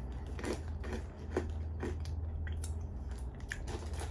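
A person chewing Hula Hoops crisps, a crunchy snack. There are short, irregular crunches about every half second.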